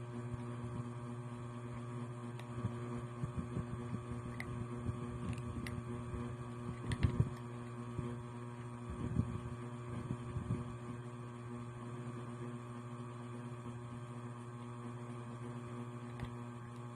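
Steady electrical hum throughout, with faint scattered clicks and a few soft low thumps.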